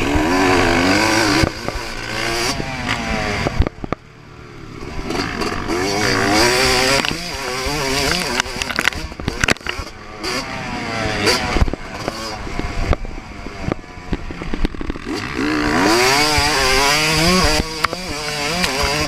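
2024 Yamaha YZ250 two-stroke single-cylinder motocross engine ridden hard, its pitch repeatedly rising under full throttle and falling between shifts and corners. The throttle snaps shut about four seconds in, then the engine builds back up, with a few sharp knocks along the way.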